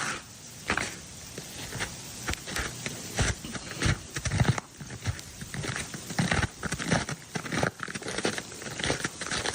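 Ice crackling and pattering: a dense, irregular run of sharp cracks and ticks.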